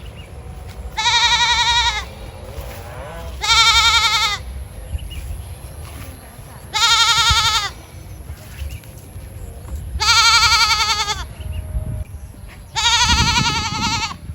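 High-pitched bleating from a goat-like farm animal: five loud, quavering calls about a second each, a few seconds apart, over a low background rumble.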